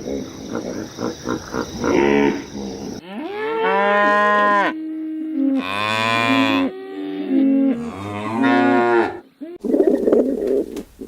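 Cattle mooing: several long, drawn-out moos, some overlapping, after a few seconds of rough, pulsing noise.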